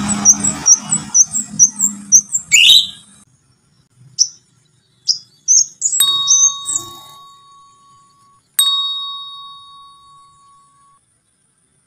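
Crimson sunbird singing: a quick string of high, thin chirps, about four a second, for the first three seconds, then scattered single chirps. Twice, about six and eight and a half seconds in, a bell-like ding starts suddenly and rings out as it fades.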